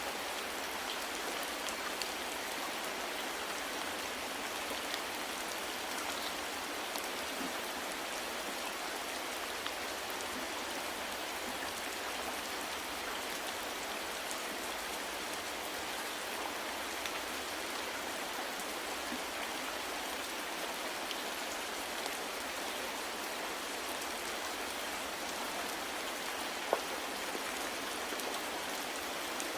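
Steady soft rain falling, an even patter with scattered individual drop ticks and one sharper drip near the end.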